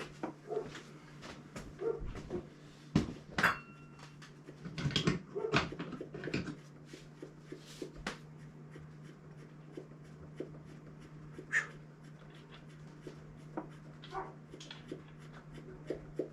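Irregular metal clinks and knocks from hand tools working in a car's engine bay while parts are pried and unbolted, busiest in the first half, over a steady low hum.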